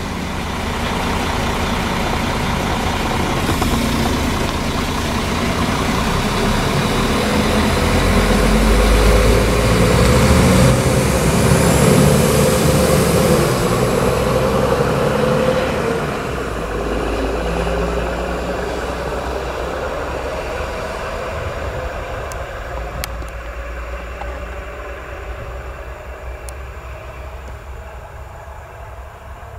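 Diesel railcar train going by on the track: engine and wheel rumble grow louder, peak near the middle with the engine note sliding down in pitch, then fade steadily as it pulls away.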